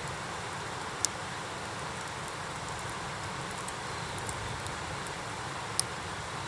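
Wood campfire burning in a fire pit: a steady hiss with faint crackles and two sharp pops, about a second in and near the end.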